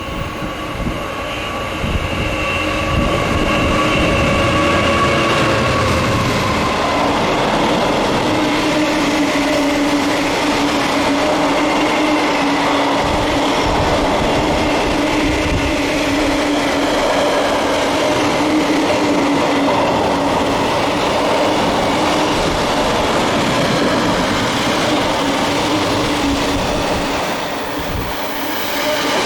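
Diesel train running close by, a loud steady rumble of wheels on rail with a steady humming tone. Higher tones fade out about six seconds in.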